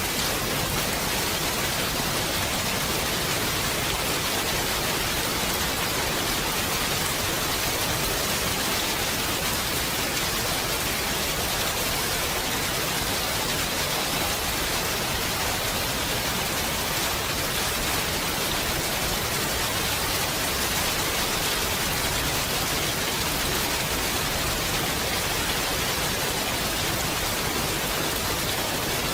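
Steady, dense rain falling, an even hiss with no single drops or thunder standing out.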